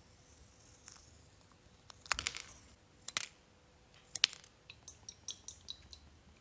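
Sharp clicks and knocks of hard objects being handled: three louder knocks about a second apart, then a quick run of lighter ticks near the end.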